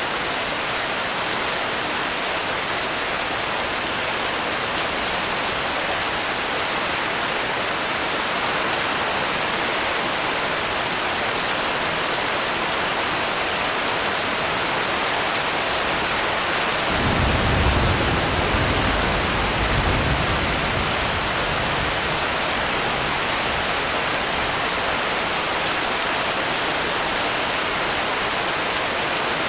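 Steady, heavy-sounding rainfall as an even hiss, with a low rumble of distant thunder swelling and fading over a few seconds a little past halfway.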